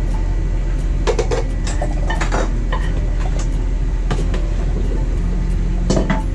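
Steady low rumble with a few sharp clatters, like pans and utensils being handled in a food truck kitchen: one about a second in, another around two and a half seconds, and a louder one near the end.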